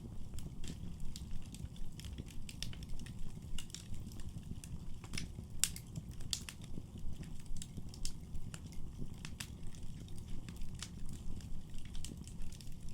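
Wood fire in a fireplace crackling: irregular sharp pops and snaps, one louder pop about halfway through, over a steady low rumble of the burning fire.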